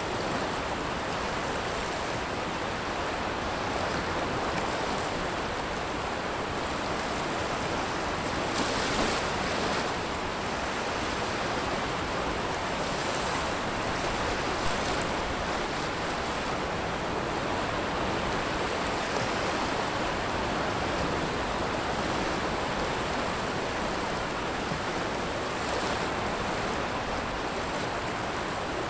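Ocean waves washing onto a pebble beach: a continuous wash with a high hiss that swells a few times, around 9 and 13 seconds in and again near the end.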